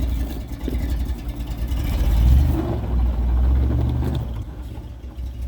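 Off-road vehicle's engine running and revving under load. It swells to its loudest about two seconds in, holds for a couple of seconds, then eases off near the end.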